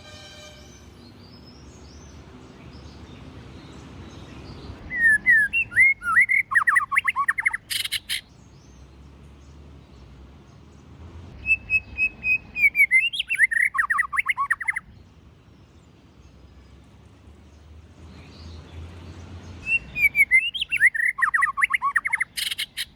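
White-rumped shama singing three phrases of rapid, loud whistled notes, about six seconds apart. Each phrase sweeps up and down in pitch, and two of them end with a sharp click.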